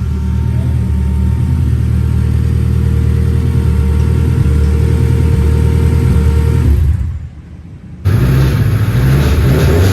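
Honda Del Sol's engine running through a freshly fabricated full 4-inch exhaust, a steady deep note. It drops away about seven seconds in, then comes back abruptly, louder and rougher, about a second later.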